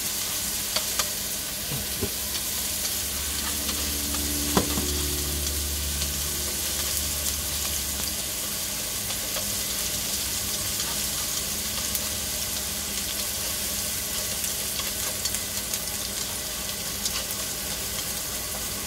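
Minced garlic and ginger sizzling in hot oil in a wok as they brown, stirred with wooden chopsticks that tick against the pan now and then. One sharper tap about four and a half seconds in.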